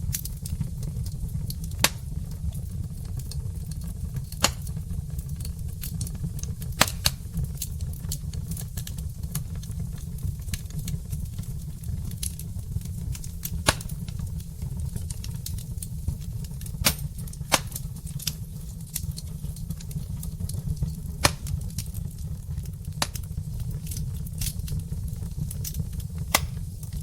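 Wood fire burning in a fireplace: about a dozen sharp, irregular crackles and pops over a steady low rumble.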